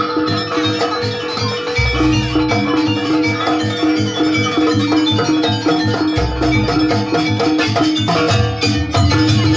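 Javanese gamelan-style music: quick, repeated mallet-struck metal-key notes over a steady beat, with a deep gong stroke about two seconds in and another about six seconds in.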